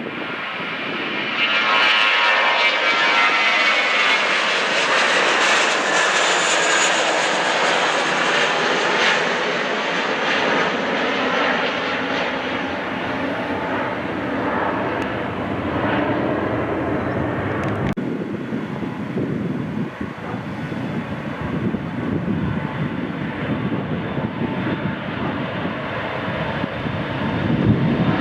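Jet airliner's engines roaring as it passes close by on the runway, the engine whine sliding down in pitch as it goes past. The roar is loudest from about two seconds in to about ten seconds in, then settles into a lower, steadier rumble.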